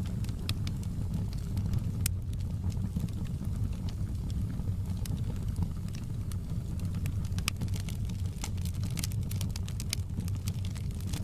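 Wood fire crackling in a fireplace: scattered sharp pops and snaps, a few more in the second half, over a steady low rumble.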